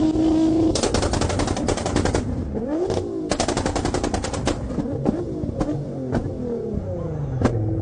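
V8 engine revved in repeated blips, with rapid exhaust pops and crackles between the revs, settling back to a steady idle near the end.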